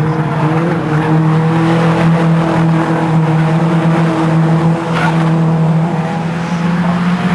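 Race car engine running hard at high revs, its pitch holding fairly steady, with a brief break about five seconds in.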